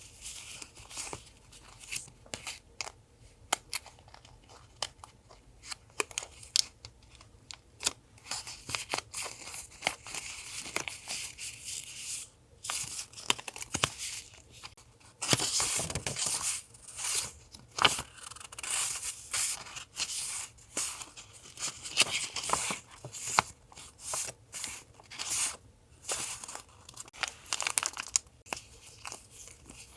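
Close-up handling of paper and sticker sheets: tearing, peeling and crinkling, with many small clicks and a louder rustling stretch about halfway through.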